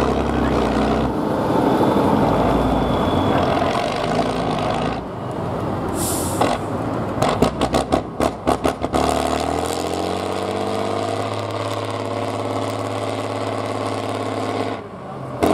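Competition truck's diesel engine working hard with a heavy rumble. A short hiss comes about six seconds in, then a run of choppy breaks in the sound. The engine then climbs in pitch and holds a steady tone.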